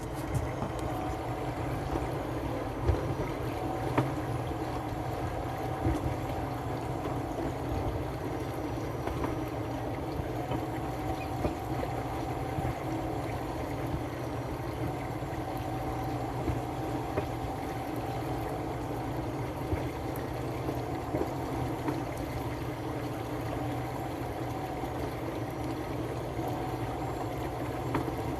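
A speedboat's engine running steadily, with a faint wavering whine and the occasional light knock.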